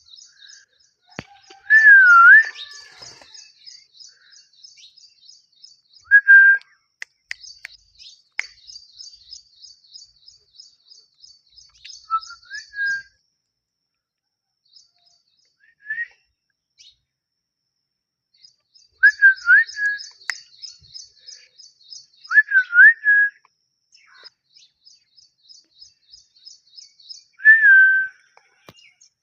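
A pet parrot whistling loud, short calls that swoop up and down in pitch, about seven times, a few seconds apart. Between and under them runs a fast, high, evenly repeated chirping in long stretches.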